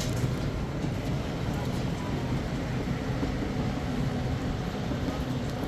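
Steady vehicle engine and road noise, a continuous low rumble with a faint even hum.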